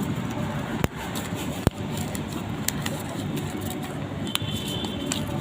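Steady rumble of street traffic, with two sharp knocks about a second in and a short high electronic beep about four seconds in.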